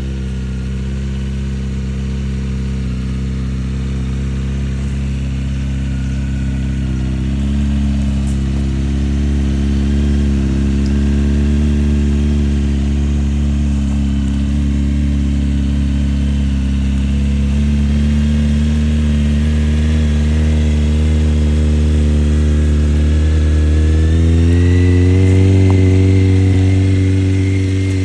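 1995 Honda CBR600 F3's inline-four engine idling steadily after a cold start. Its speed steps up slightly about seven seconds in, then rises again near the end and holds at a higher idle.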